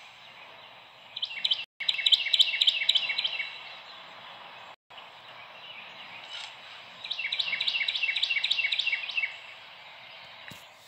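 A songbird singing twice, each song a rapid run of repeated high notes at about five a second, lasting about two seconds.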